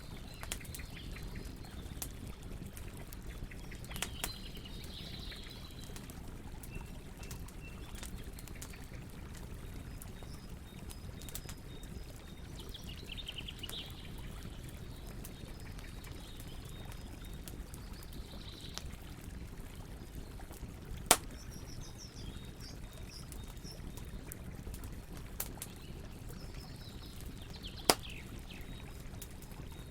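Wood campfire crackling, with occasional sharp pops, two of them loud about two-thirds of the way in and near the end, over a steady low rushing background. Birds chirp briefly every few seconds.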